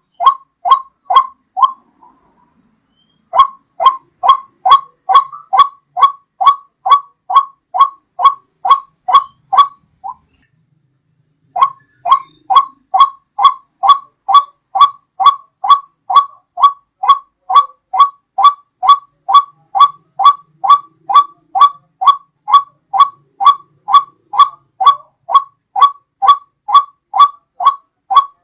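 White-breasted waterhen (ruak-ruak) call: a loud, monotonous series of short hollow notes, about two to three a second, broken by two brief pauses. It is a lure call recording used to draw the birds in.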